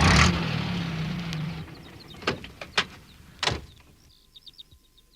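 Post van's engine running steadily, then cutting off about a second and a half in, followed by a few sharp clicks and knocks like the van's door being opened and shut.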